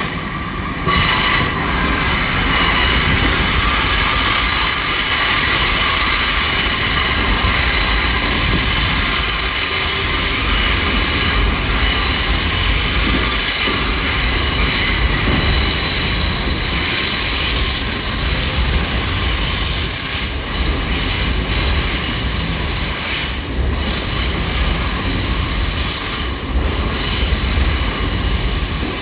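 Great Western Railway Class 800 IET train pulling slowly out of the platform, with steady high-pitched squealing from its wheels over a low rumble.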